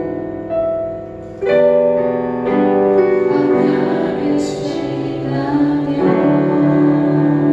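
Praise band playing a worship song, led by keyboard chords that shift every second or so, with a brief cymbal-like hiss about halfway through.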